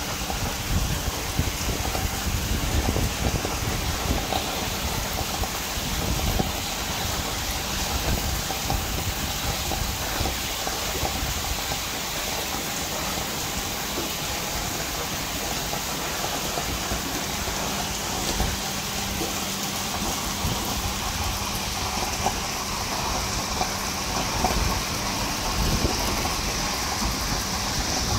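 Heavy rain pouring steadily onto wet pavement, with uneven low rumbles from wind buffeting the microphone.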